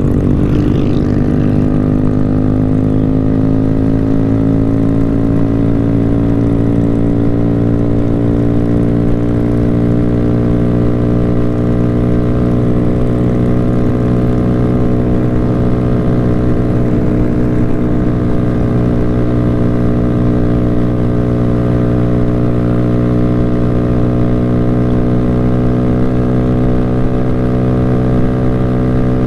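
Motorcycle engine running at a steady cruising speed while riding, its pitch rising slightly in the first couple of seconds and then holding even.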